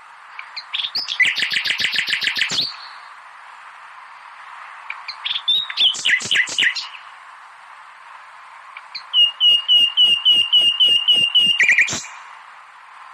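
Common nightingale singing three phrases of rapid repeated notes, with pauses of a couple of seconds between them, over a steady background hiss.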